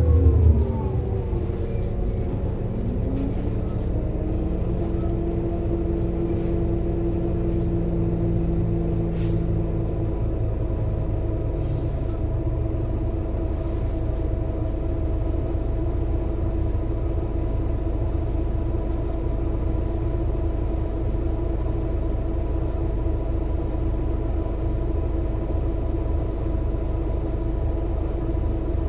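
Scania K230UB city bus slowing to a stop, its engine and driveline pitch falling away over the first second or two. It then stands with the engine idling and a steady whine, a short tone rising about three seconds in. Brief hisses of air come near 9 and 12 seconds in.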